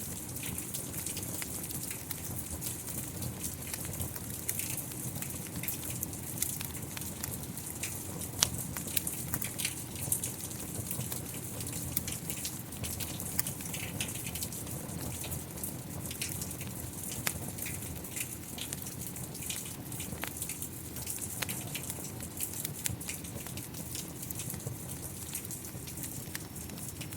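Steady rain with scattered sharp crackles and pops of a wood fire.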